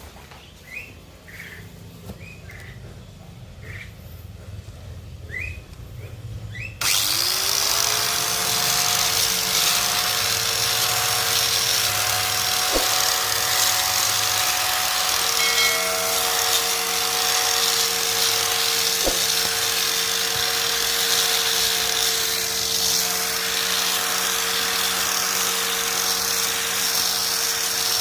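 Small birds chirping faintly, then about seven seconds in the motor of a homemade grass cutter switches on, spins up quickly and runs on at a steady whine.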